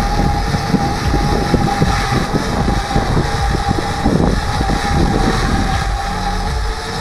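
Parrot Bebop 2 quadcopter in flight: a steady hum from its motors and propellers, with wind buffeting the microphone.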